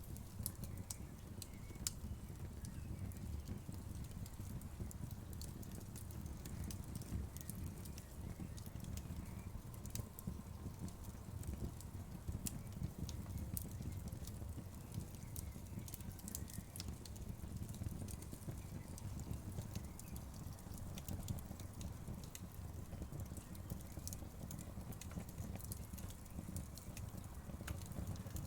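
Wood fire burning in a fireplace: a steady low rumble of flames with sharp, irregular crackles and pops of the wood.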